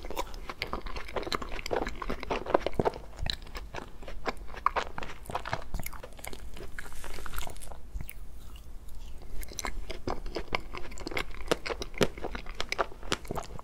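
Close-miked chewing of ice cream cake: a quick, irregular run of wet mouth clicks.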